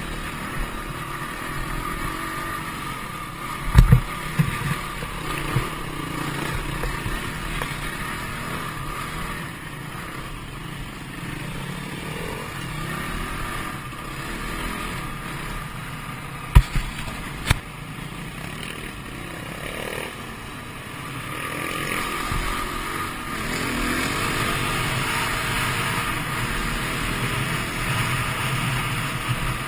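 Dirt bike engine running, its note rising and falling as it revs. A few sharp thumps cut through: one about four seconds in and two close together a little past the middle.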